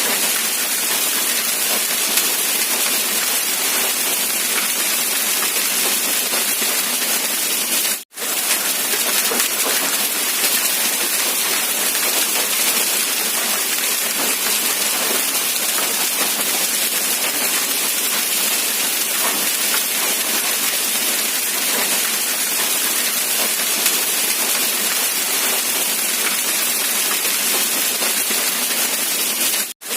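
Steady, dense rain, an even hiss with no separate drops standing out. It cuts out completely for an instant twice, about 8 seconds in and again near the end.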